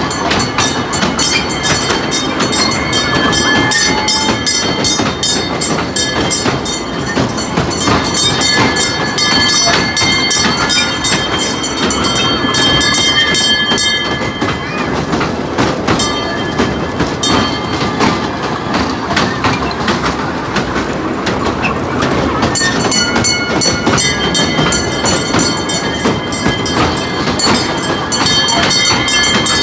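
A train running along the track: a steady, loud rumble packed with rapid rattling and clatter, with thin high whines in places. The high rattling eases off for several seconds about halfway through, then returns.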